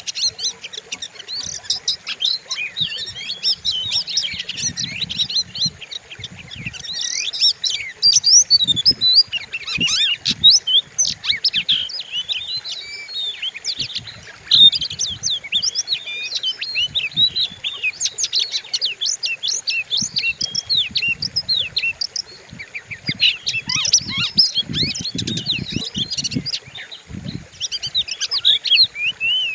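Oriental magpie-robin (kacer) singing a loud, fast, varied song of sharp whistles and chirps without a break, with scattered soft low thuds underneath.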